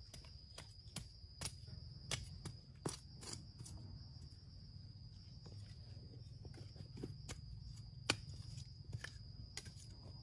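Insects droning with one steady high whine, over scattered light clicks and knocks.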